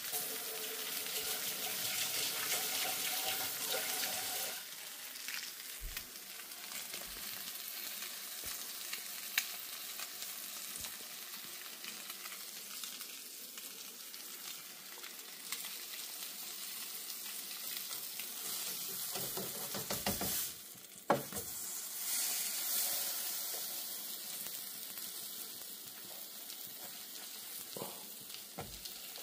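Egg-soaked French toast slices and sausages sizzling in a frying pan, a steady high hiss that is louder for the first few seconds, with a few light clicks and knocks.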